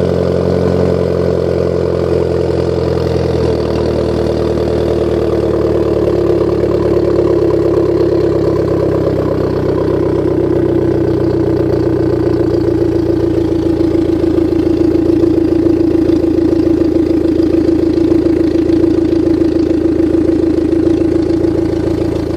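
Abarth 500 SS engine idling cold through an aftermarket Asso exhaust, a steady, even idle whose pitch eases slightly lower over the first dozen seconds.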